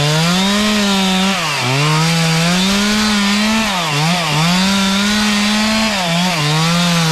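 Chainsaw running at high revs while cutting wood. Its pitch dips sharply and recovers about four times as the chain bogs down in the cut.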